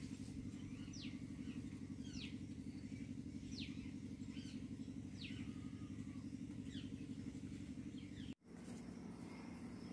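A bird calling in short, falling chirps about once a second over a steady low drone. The sound cuts out for an instant about eight seconds in.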